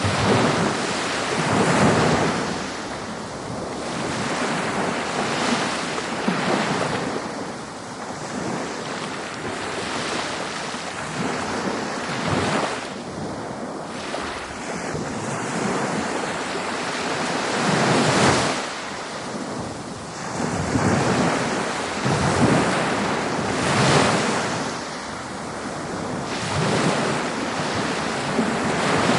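Ocean surf breaking on a beach: a steady rush of water that swells and falls as each wave comes in, with wind on the microphone.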